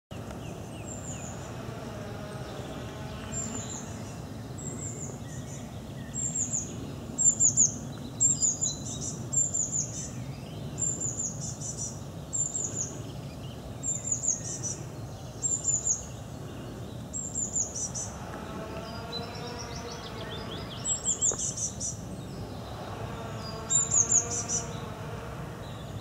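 Birdsong: a small bird repeating short, high, falling notes about once a second. A lower warbling call comes in twice near the end, over a steady low background rumble.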